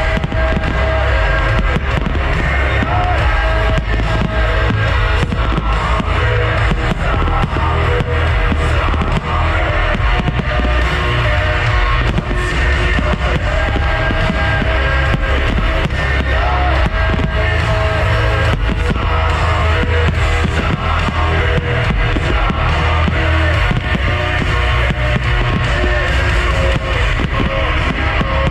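Loud music for a pyromusical fireworks display, with the bangs and crackle of fireworks going off repeatedly over it.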